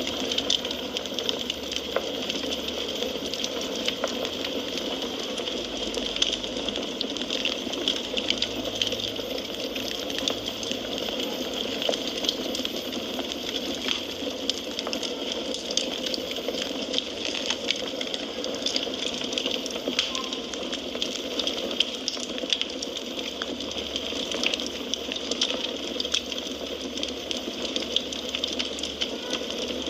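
Wood fire crackling steadily: a constant hiss with frequent small pops and snaps.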